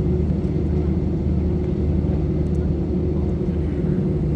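Steady cabin drone of an Airbus A320 in flight, engine and airflow noise forming an even low hum with a few constant tones.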